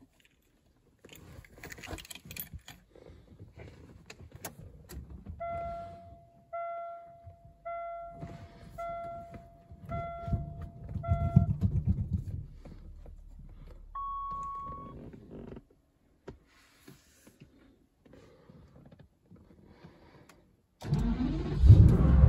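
Keys jangling and clicking in the ignition of an Aston Martin DB7, then a warning chime beeping six times and a single higher tone. Near the end the engine cranks and catches on a cold start, suddenly much louder, heard from inside the cabin.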